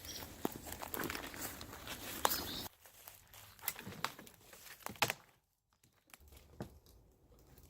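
Crackling and crunching of dry debris underfoot, dense for the first couple of seconds, then sparser clicks and cracks, with the sound dropping out briefly past the middle.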